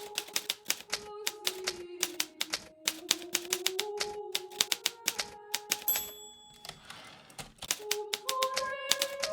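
Hermes Baby portable manual typewriter being typed on in a quick run of sharp keystrokes, with a short break about six seconds in before the typing resumes.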